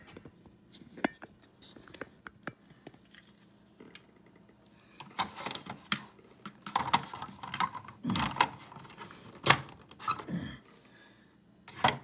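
Hard plastic track-set pieces clacking and rattling as they are handled and fitted together: light scattered ticks at first, then a busy run of sharp clicks and knocks in the second half.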